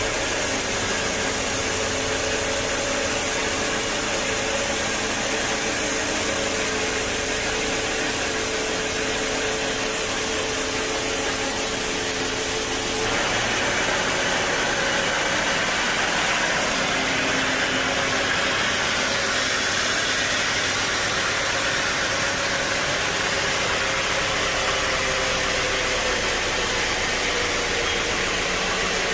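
Sawmill machinery running steadily, a hum with a few steady tones over a hiss. The sound changes abruptly about 13 seconds in and then runs on steadily.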